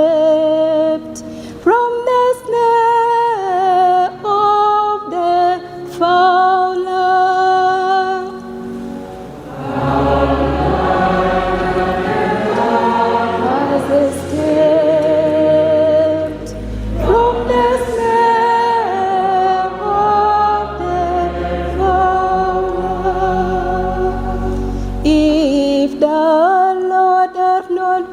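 Sung psalm. A single voice chants a verse, then from about ten seconds in a choir joins with deep bass notes underneath. Near the end the single voice returns.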